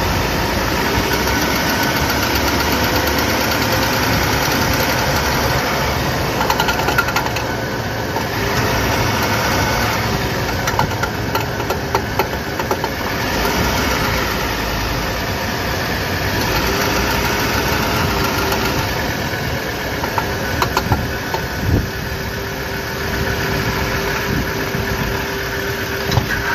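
Vehicle running steadily with scattered sharp clunks and knocks from a worn driveshaft universal joint.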